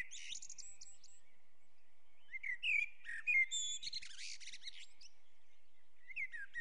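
Small songbirds chirping and singing: quick high chirps, short whistled glides and trills in bursts, pausing for about a second and a half after the first second and again near the end.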